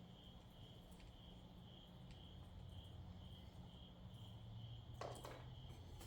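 Faint high-pitched chirp repeating evenly about twice a second over a low hum, near silence otherwise.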